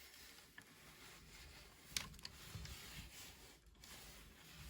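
Near silence with faint handling of a plastic action figure, and one sharp click about two seconds in.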